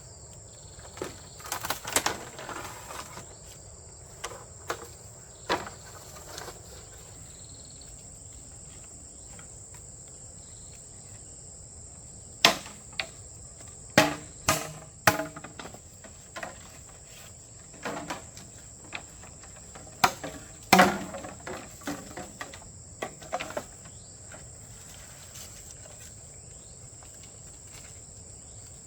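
Insects keep up a steady high-pitched drone throughout. Over it come irregular sharp knocks and clatters, in small clusters near the start, again through the middle, and once more a little after two-thirds of the way through.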